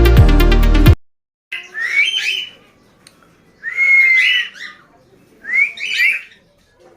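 Electronic music cuts off about a second in; then a baby cockatiel calls three times, high calls of about a second each.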